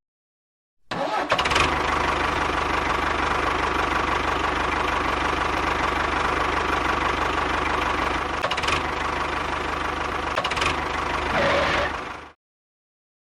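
An engine starting about a second in and running steadily, then cutting off suddenly near the end.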